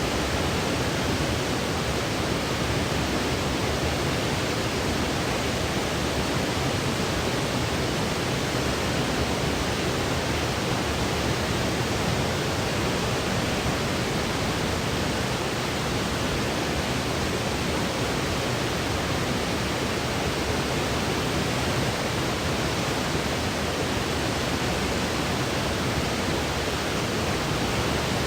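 Steady generated sleep noise, an even, unchanging hiss of the white-noise kind.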